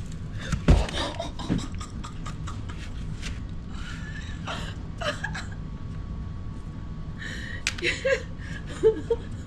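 A dull thump about a second in, then scattered small clicks and rustles from hands handling a small snowman made of packed snow, with short breathy vocal sounds near the end.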